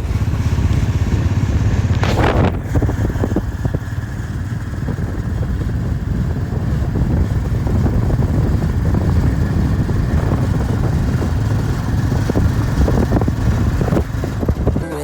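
Motorcycle engine running steadily on the move, a dense low rumble mixed with rushing noise, with a brief louder whoosh about two seconds in.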